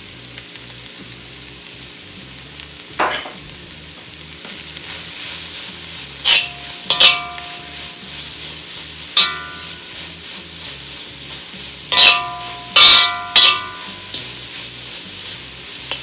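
Grated carrot and onion sizzling in ghee in a cast-iron wok, stirred with a metal spatula that clinks against the pan several times in the second half, each clink ringing briefly.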